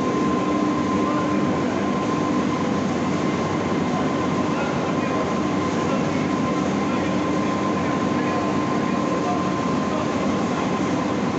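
Steady mechanical running noise with a constant whine held above it, unbroken throughout.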